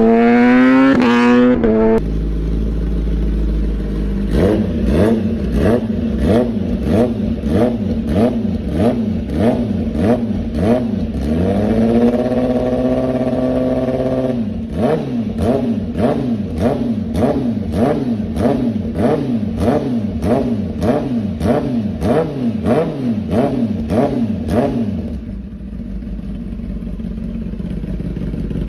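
Kawasaki ZX-10RR's inline-four engine revving through its exhaust, with quick throttle blips one after another, the pitch rising and falling each time. Near the middle one rev is held high for about two seconds, and near the end the engine settles to a steady idle.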